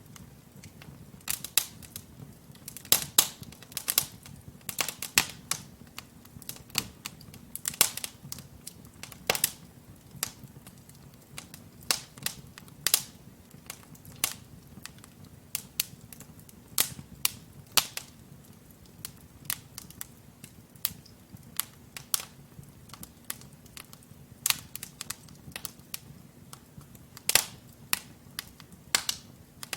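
Wood fire in a fireplace crackling: logs burning, with irregular sharp pops and snaps several times a second over a faint low rumble of the flames.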